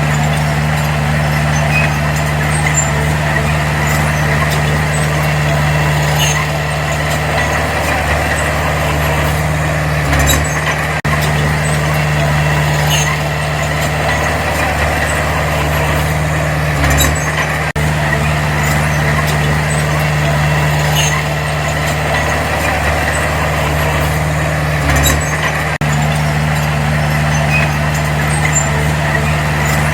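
Diesel engine of heavy earthmoving machinery running steadily under work, with faint metallic clinks and a few brief low thuds.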